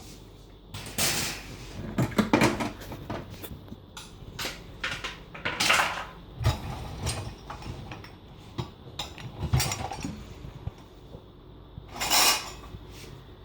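Scattered knocks, clatter and sliding sounds of a dishwasher being emptied, its racks and contents pulled out by hand. The loudest rattles come about a second in, near the middle and near the end.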